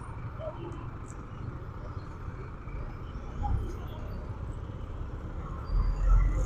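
Steady low rumble of a motorcycle ride, with wind buffeting the microphone in two gusts: a short one about three and a half seconds in and a louder one near the end.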